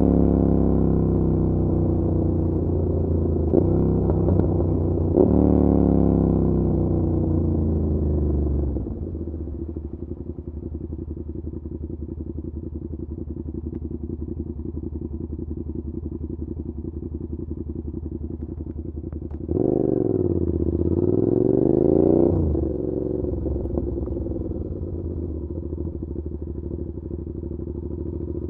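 Suzuki SV650's V-twin through an SC Project exhaust: the engine slows down over the first several seconds, with a couple of quick rev changes along the way. It then settles to a low, steady idle. About twenty seconds in there is a short burst of revs before it drops back to idle.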